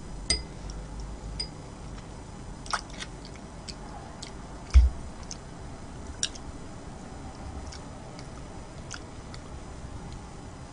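Close-miked eating: chewing with scattered short, sharp mouth clicks. A single dull thump, the loudest sound, comes about five seconds in.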